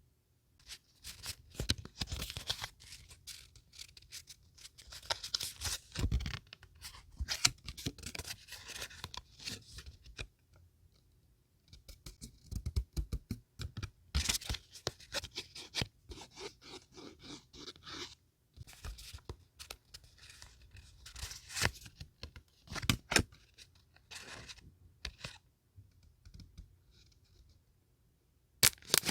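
Scrapbooking paper being handled close up: crisp rustling, tearing and scraping in irregular bursts with sharp clicks, separated by short pauses.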